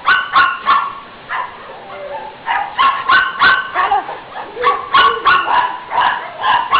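Dog barking in quick repeated series, with a short lull about two seconds in before the barks resume.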